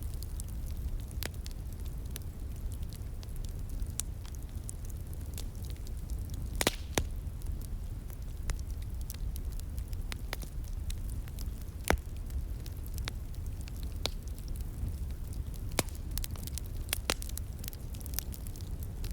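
Wood fire crackling, with irregular sharp pops and snaps, a few louder than the rest, over a steady low rush.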